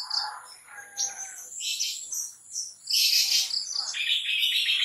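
Long-tailed shrike (cendet) singing: a run of short, scratchy call phrases, high-pitched, one after another.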